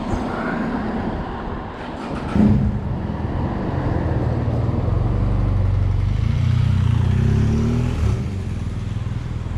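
Road traffic: a motor vehicle's engine running close by from about two and a half seconds in, its pitch rising a little near the end, over general street noise, with a brief loud knock just before the engine sound starts.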